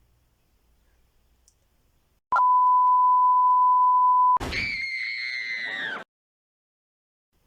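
A loud, steady electronic bleep tone lasting about two seconds. It is followed at once by a shorter, shrill high tone that dips slightly in pitch before cutting off suddenly.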